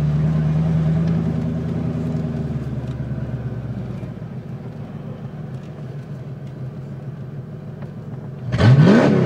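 1988 Ford Mustang GT's 302 (5.0-litre) V8, with no exhaust past the catalytic converters, heard from inside the car: a steady engine note that eases off and quietens over the first few seconds. Near the end it revs hard, loud and rising quickly in pitch under acceleration.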